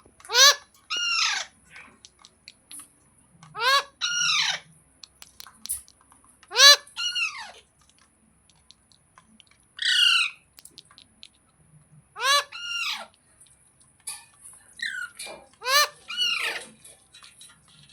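Rose-ringed (ringneck) parakeet calling: loud, short squawks, mostly in pairs, repeated about every two to three seconds.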